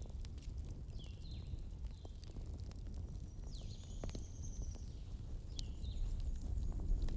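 Wood fire burning with scattered sharp crackles and pops over a steady low rumble. Short chirping bird calls come several times through it, with one longer, higher call near the middle.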